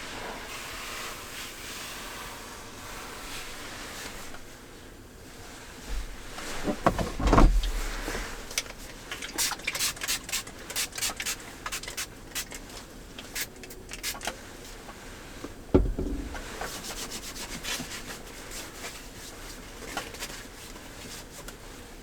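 Gear being handled inside a car: rubbing and a quick run of clicks and knocks, with two heavy thumps, one about six seconds in and one near sixteen seconds.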